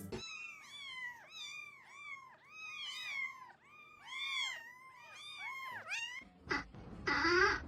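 A kitten mewing over and over, short high-pitched mews about three a second. Near the end a louder, lower call comes in over a changed background.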